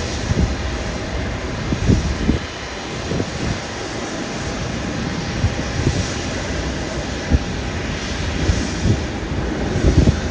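Steady airport apron noise of aircraft engines running, broken by irregular low thumps.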